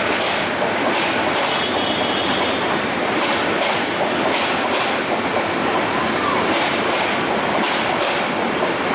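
Passenger coaches of a PT INKA-built rake rolling past, a steady rumble and rush of wheels on rail with paired clicks every second or so as the wheelsets cross rail joints.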